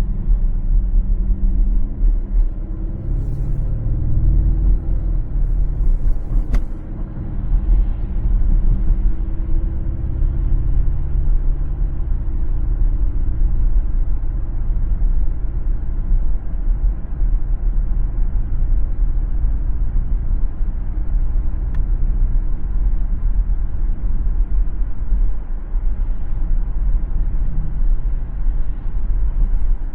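A car driving on a city road: a steady low rumble of tyres and engine, with a humming drone over it for the first dozen seconds and a single sharp click about six and a half seconds in.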